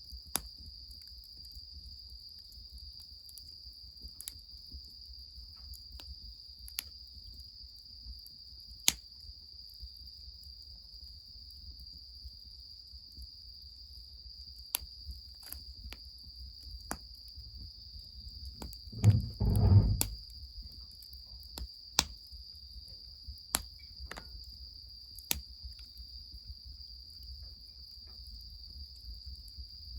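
Crickets chirring in a steady high trill, with sharp pops from the wood fire crackling now and then. A brief low rumble about two-thirds of the way in.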